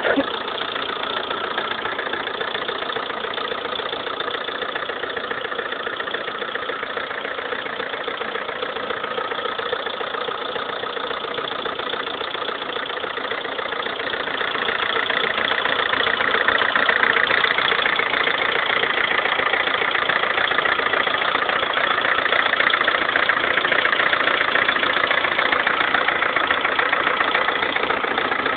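Lada Kalina 1.4-litre 16-valve four-cylinder engine idling with a rapid, steady knock, rattling like a tractor; the noise was cured by fitting pistons and connecting rods of a different size group. It grows somewhat louder about halfway through and stays so.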